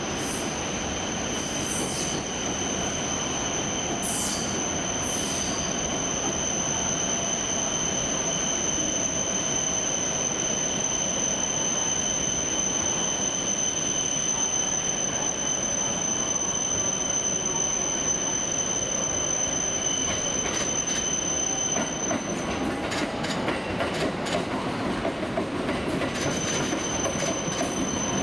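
A train moving slowly through a station, its wheels squealing with a steady high-pitched whine against the rumble of the running gear. About 22 seconds in, the squeal breaks off and the wheels click over rail joints and points, before the squeal starts again near the end.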